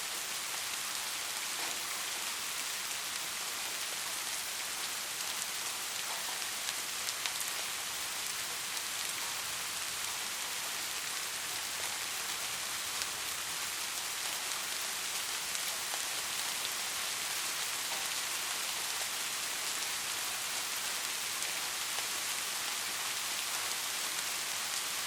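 Steady rainfall: an even hiss with scattered sharper drop ticks now and then.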